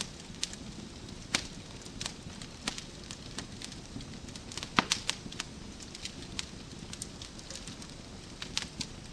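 Wood fire burning in a fireplace: a steady low rumble and hiss under irregular sharp crackles and pops, with a quick cluster of louder pops about halfway through.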